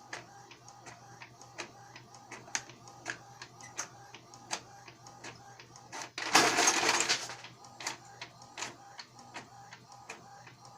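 Epson L120 inkjet printer running: a steady hum under regular clicks about twice a second, with one loud rasping burst of about a second some six seconds in.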